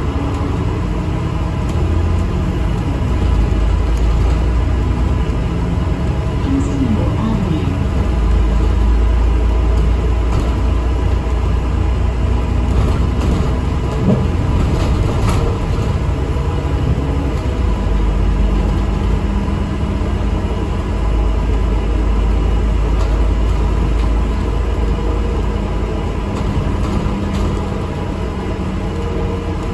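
Interior noise of an ADL Enviro 400 MMC double-decker bus on the move: a steady low engine and road rumble that swells and eases every few seconds as it drives.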